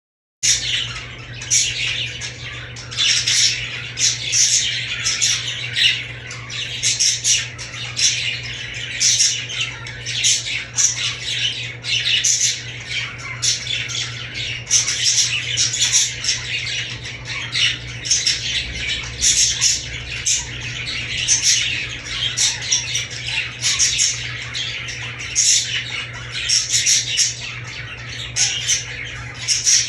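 Budgerigars (budgies) chattering and squawking, a dense run of rapid high-pitched calls over a steady low hum.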